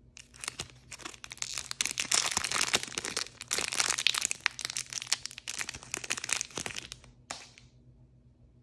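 Crinkly blind-bag packaging being crumpled and handled: a dense run of crinkling and crackling lasting about seven seconds, then one short rustle.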